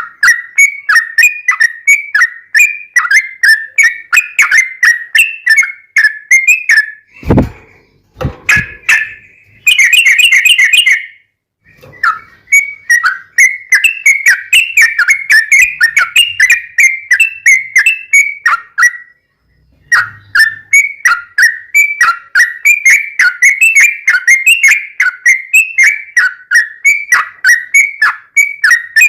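Sooty-headed bulbul (trucuk) singing a fast, unbroken run of short whistled chirps, pausing briefly about twelve seconds in and again near nineteen seconds. A couple of low knocks sound about seven seconds in.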